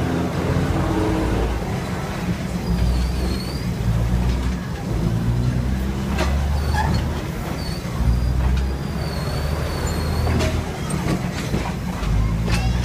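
Diesel railcar train running with a steady low engine and wheel rumble, with a few sharp clacks and faint high squeals now and then.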